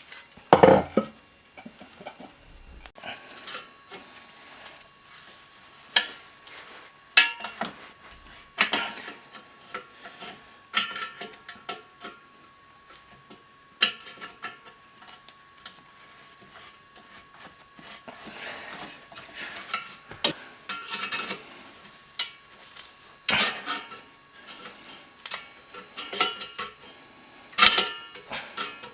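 Metal tools and engine parts clinking and clanking during an ATV engine teardown: irregular sharp knocks and rattles with short pauses between them.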